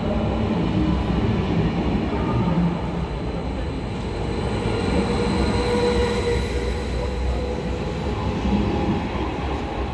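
ODEG Stadler KISS double-deck electric multiple unit rolling past along the platform: a steady rumble of wheels on rails with a faint whine.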